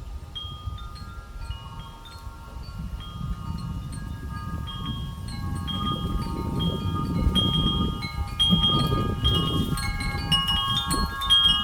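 Wind chimes ringing: many overlapping metallic notes struck at random and ringing on, growing busier as the wind picks up. Wind rumbles on the microphone.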